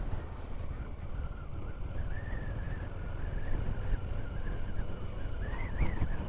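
Ride noise from a KTM 390 Duke on the move: a steady low rumble of wind buffeting the rider's microphone over the motorcycle's running, with a faint wavering high whistle.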